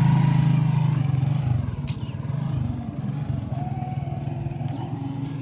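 A vehicle's engine running steadily, loudest at the start and easing to a lower level after about a second and a half.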